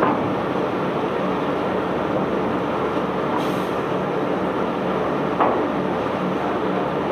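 Heavy unloading machinery running steadily, a diesel engine drone over a constant rumble, with a sharp knock at the start and another about five seconds in.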